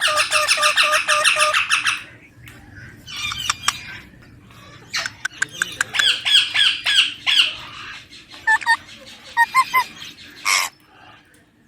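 Baby ringneck parakeet squawking: a fast run of harsh repeated calls for the first two seconds, then further bursts of calls, and a few short squawks near the end.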